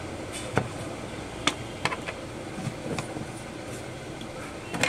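A handful of sharp, irregular clicks and taps from small hand tools being handled during work on a power supply board, over a steady background hum.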